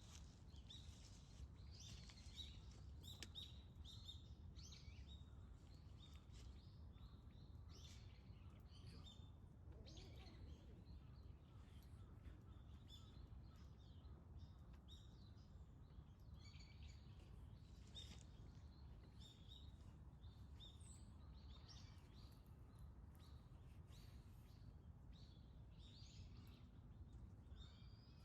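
Faint chirping of small birds, short high calls scattered throughout, over a steady low rumble.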